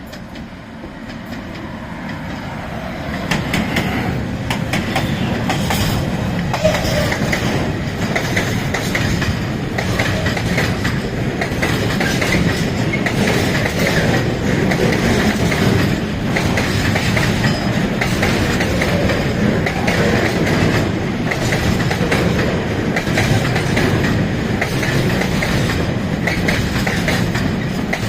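Train passing close by on the track, growing louder over the first few seconds as it approaches, then a steady run of wheels clacking over the rail joints.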